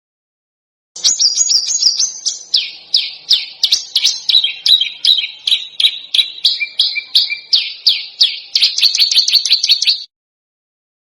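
A songbird's harsh, rapid call notes from a masteran training recording: a dense string of short, sharp notes, each sliding down in pitch. They start about a second in, quicken near the end, and stop about a second before the end.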